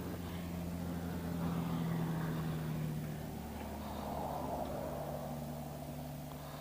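A vehicle engine running steadily at a fairly low level, its pitch easing down a little about three seconds in.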